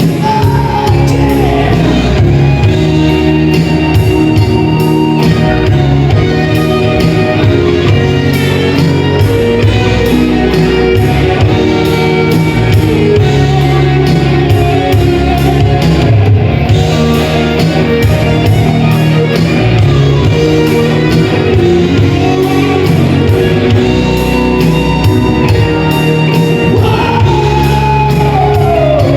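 A band playing with a singer, over a steady drum beat.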